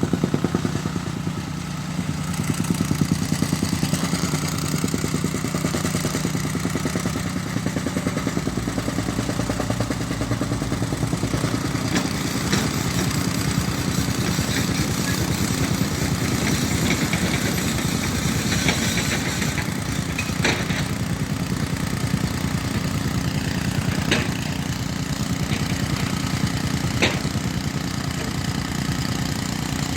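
An engine running steadily at a low, even pitch, with a few sharp clicks or knocks over it in the second half.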